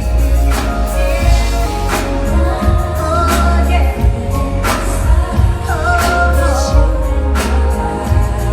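Live R&B concert music: a heavy bass line and a drum beat with a sharp snare hit about every second and a half, under a singing voice with sliding vocal runs.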